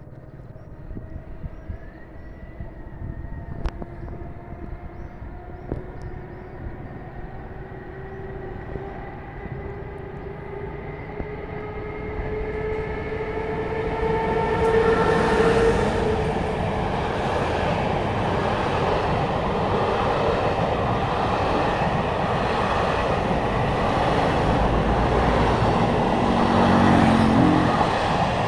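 An ONCF E-1400-series electric locomotive pulls away with a passenger train, its whine slowly rising in pitch as it gathers speed. From about halfway the sound grows much louder as the locomotive and its coaches pass close by, wheels running on the rails.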